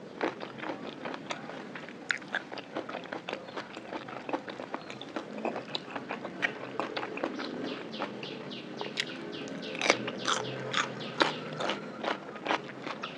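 Close-miked eating sounds: wet chewing and crisp crunching of a spicy Thai raw-shrimp lime salad with fresh cucumber, a quick run of crackling crunches that grows denser after about six seconds.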